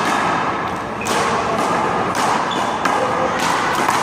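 Rubber handball being played on a one-wall court: several sharp slaps and bounces as the ball is struck by hand and hits the wall and the concrete floor, spaced irregularly.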